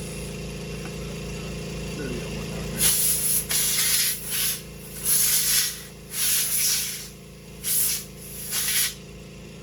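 Compressed-air blow gun hissing in six or seven short bursts, starting about three seconds in, over a steady low hum.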